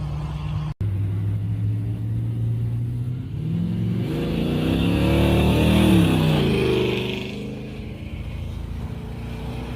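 Car engines: one running steadily, then a car driving past that gets louder to a peak about six seconds in, its engine pitch dropping as it pulls away.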